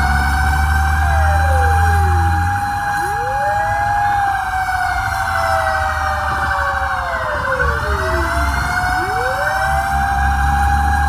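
Fire truck sirens sounding, one holding a steady high tone while others drop in pitch and wind back up twice, over the low rumble of the truck's engine.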